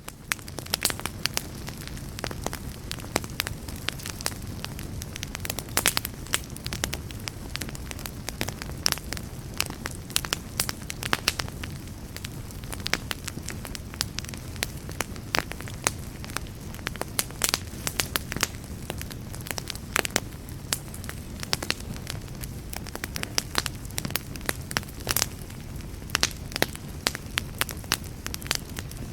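Wood fire burning steadily, with a low rumble of flame under frequent sharp, irregular crackles and pops.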